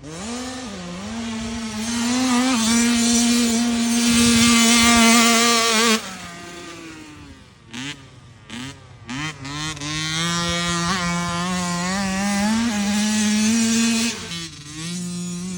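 Cobra 50 youth dirt bike's 50cc two-stroke engine running near full throttle, held at a high steady pitch for about six seconds. The throttle is chopped about six seconds in, followed by a few short blips, then it revs back up and holds high again.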